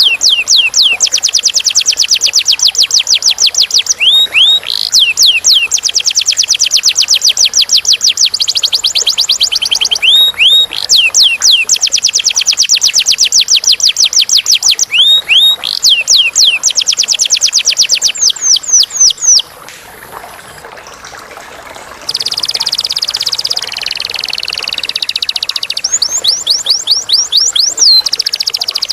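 Domestic canary singing long, fast rolling trills of rapidly repeated rising notes. About twenty seconds in the song breaks off briefly, then returns as a harsher, buzzy passage before the clear trills start again.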